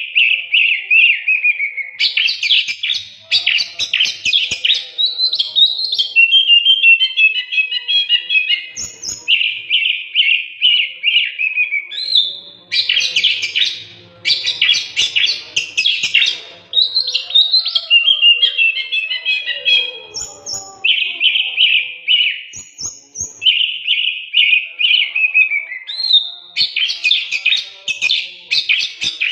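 Oriental magpie-robin (kacer) singing loudly and without pause: a fast, varied stream of clear whistles, rapid stepped trills and harsh chattering phrases, some phrases recurring several times.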